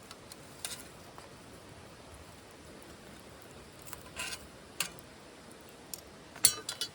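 Wood fire crackling in a small titanium wood stove: scattered sharp pops over a faint steady hiss, with a cluster of louder pops near the end.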